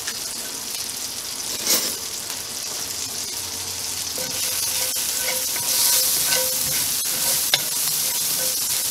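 Minced shallots and garlic sizzling in butter in a cast iron skillet, stirred with a wooden spatula in the second half. The sizzle grows louder about halfway through.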